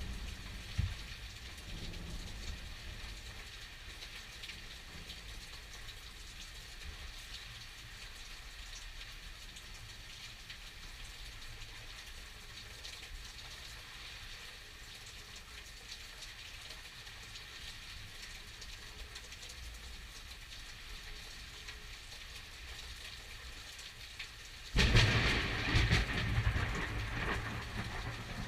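Thunderstorm rain falling steadily with a low rumble underneath. About 25 seconds in, a sudden loud crash of thunder lasts for the last few seconds.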